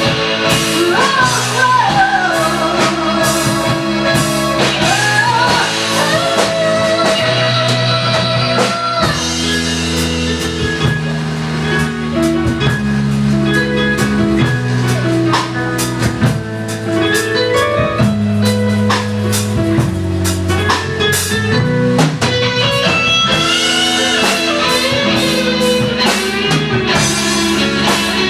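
A rock band playing, with guitar and drum kit and a gliding melody line on top.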